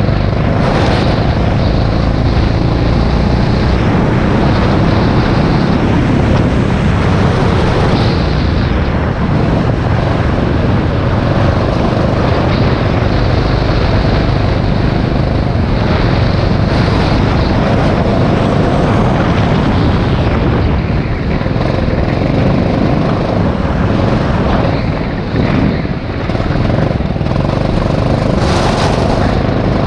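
Rental go-kart engine running hard at speed, a loud steady drone whose pitch wavers slightly through the laps.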